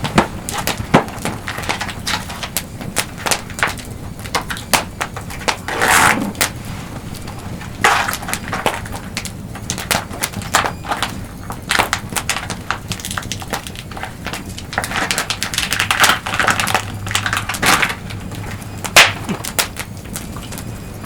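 Wood campfire crackling and popping: dense, irregular sharp snaps, with a few longer, louder noisy stretches.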